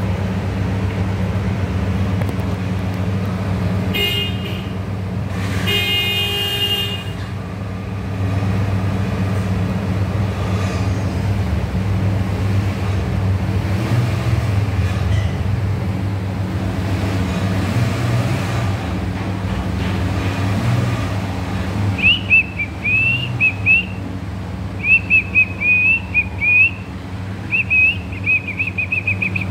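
Steady low hum with two short vehicle horn toots about four and six seconds in. From about twenty-two seconds a pet parrot gives rapid, high chirping whistles in three bursts.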